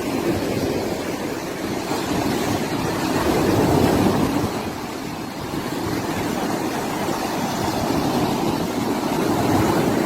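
Sea surf washing onto a beach, a steady rushing noise that swells and eases with the waves, loudest about four seconds in and again near the end.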